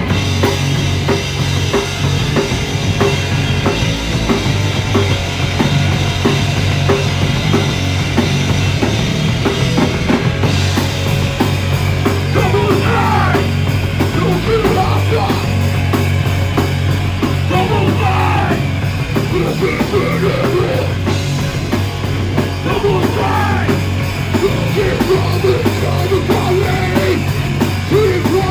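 Punk band playing live, the drum kit driving under the full band, with shouted vocals coming in at times. The sound is recorded on a phone.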